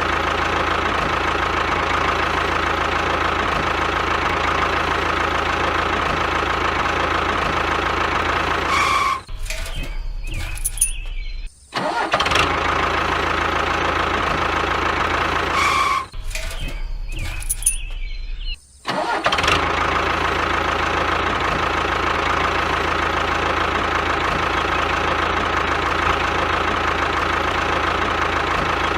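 A small engine running steadily at constant speed. The sound cuts off abruptly twice for a couple of seconds, each time replaced by a different short engine sound, before the steady running resumes.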